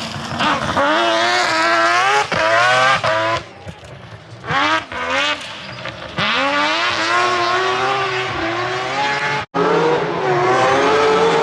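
Three-rotor Mazda RX-8 rally car's rotary engine revving hard, its pitch climbing and dropping repeatedly as it accelerates and changes gear, with a brief easing off the throttle a few seconds in. The sound cuts off abruptly for an instant near the end, then the engine is back at high revs.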